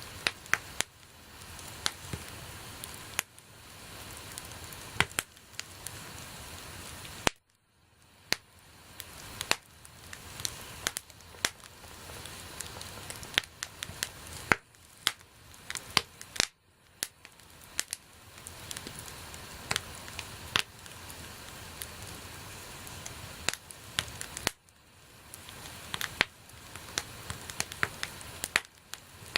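Wood campfire crackling: many sharp pops and snaps over a steady hiss of burning. The sound cuts out abruptly three times for a moment.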